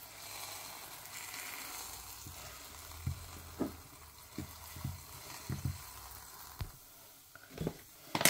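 A paratha sizzling as it fries in a pan, with a steady hiss that fades in the last couple of seconds. Over it come a series of dull knocks as dough is rolled out with a wooden rolling pin on the counter, and a sharp knock just before the end.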